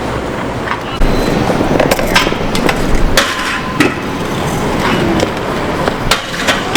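Small hard wheels rolling over pavement, with several sharp clacks and knocks from the deck and wheels hitting the ground.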